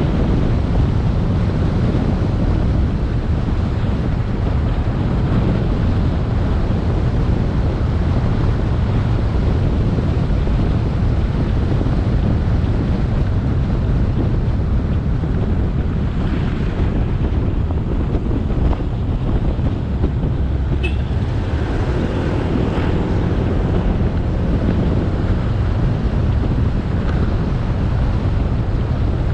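Motorcycle riding at speed: wind buffeting the action-camera microphone over a steady, low rumble of the motorbike's engine and tyres on the road.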